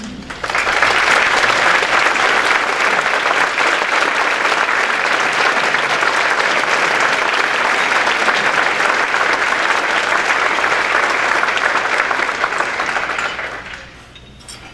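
Audience applauding: a dense, steady clapping that starts about half a second in and dies away about a second before the end.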